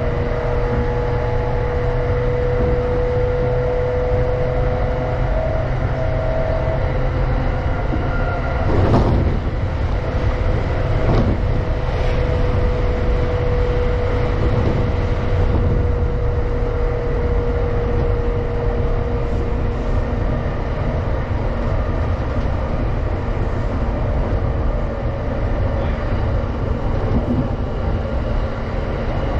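Steady rumble of a JR East Tokaido Line commuter train running at speed, heard from inside the car, with a steady tone over it. About nine seconds in, a train on the next track passes close by with a sudden whoosh that lasts several seconds.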